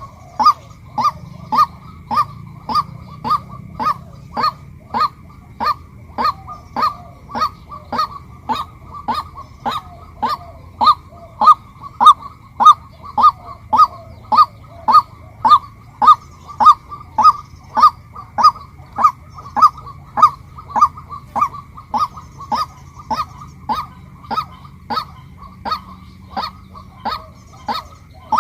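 Female white-breasted waterhen calling: a short, honking 'kwak' repeated monotonously about twice a second without a break.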